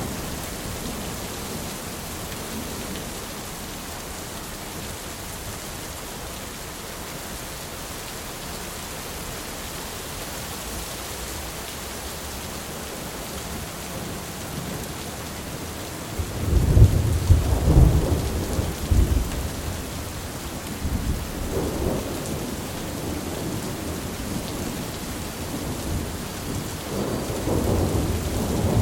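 Thunderstorm: steady rain, with a loud crack of thunder about two-thirds of the way in that rolls on as rumbles, swelling again near the end.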